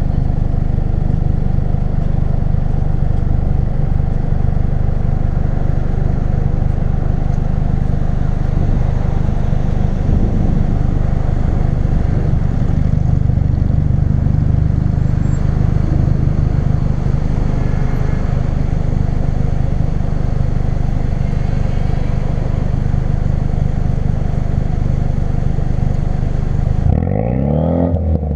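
A 2016 Ford Focus RS's turbocharged 2.3-litre four-cylinder engine running through a custom-fabricated exhaust, a steady low drone at an even engine speed while driving. Near the end the pitch drops sharply and climbs again as the revs change.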